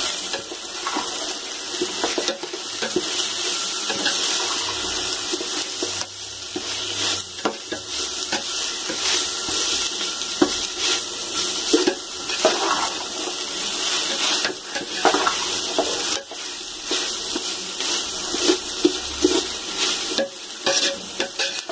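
Chopped onions and ginger-garlic paste sizzling in hot oil in a metal pot, with a steady hiss, while a metal ladle stirs them, scraping and clinking against the pot at irregular moments. The paste is being fried until it turns fragrant.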